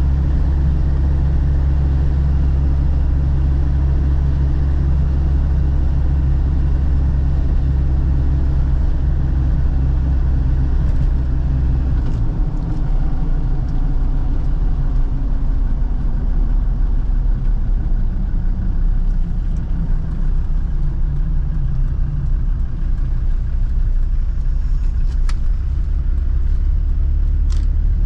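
Land Rover Defender TD5's 2.5-litre five-cylinder turbodiesel running steadily while driving, then dropping to a lower engine speed about twelve seconds in as it slows, with a falling whine afterwards. A few faint clicks near the end.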